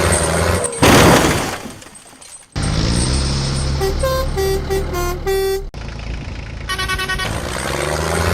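Miniature vehicle engine running, with a loud burst of noise about a second in that dies away, then a series of short horn toots and one longer horn blast near the end.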